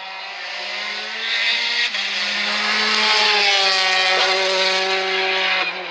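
Rally car engine running at high revs, growing louder over the first few seconds; its note eases down gently after about three seconds.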